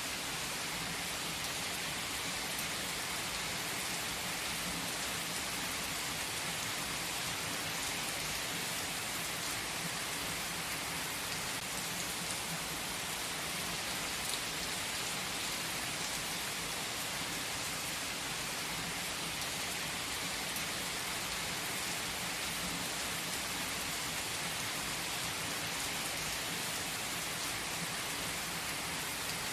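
Steady rain falling, an even, unbroken hiss with no pauses.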